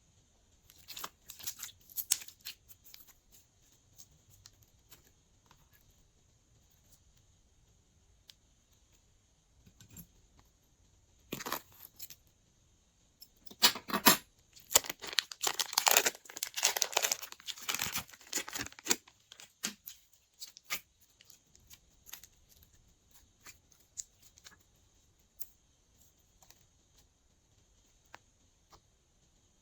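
Glossy slime being squished and stretched by hand, giving sticky crackles and pops. The sound comes in scattered bursts, with a longer, louder run of crackling about halfway through.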